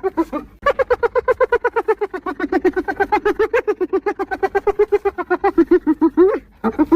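Spotted hyena giggling: a fast run of short rising-and-falling yelping notes, about eight or nine a second, with brief breaks about half a second in and near the end.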